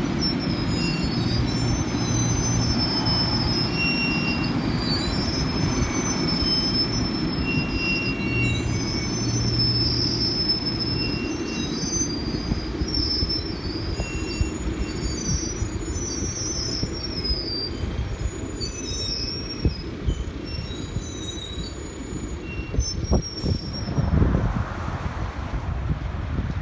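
A train creeping along slowly, its wheels squealing in many short, high, wavering tones over the low rumble of the train. A diesel hum is heard in the first half, and a few sharp knocks come near the end.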